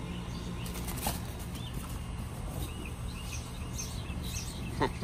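Small birds chirping now and then over a steady low hum, with a click about a second in and one short sharp sound near the end.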